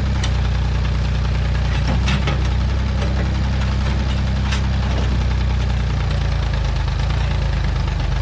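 Massey Ferguson backhoe's engine running steadily, with a few sharp clanks over it.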